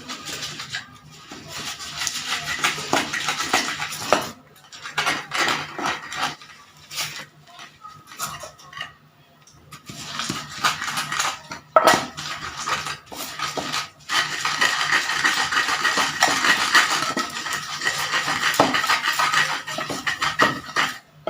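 Kitchen utensils clattering and scraping against dishes and cookware during cooking, in two long stretches with a quieter pause in the middle.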